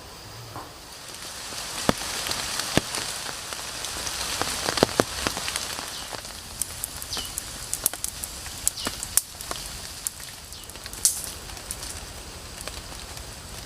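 Rain falling steadily, with scattered sharp ticks and plinks of drops over the hiss.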